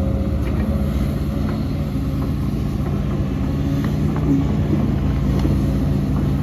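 Heavy diesel engine of earthmoving machinery running steadily under work, a low even drone with a few faint knocks.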